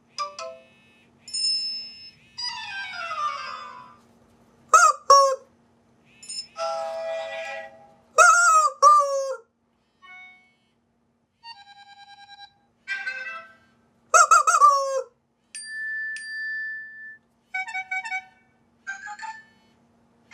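A rapid series of short iPhone ringtone and alert-tone snippets played one after another, each under about two seconds. They mix chime, mallet-like notes and beeps with several loud squawk-like drooping pitch glides.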